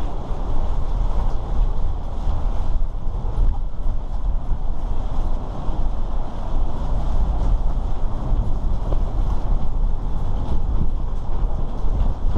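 Storm wind gusting hard across the microphone: a loud, continuous rumble and buffeting.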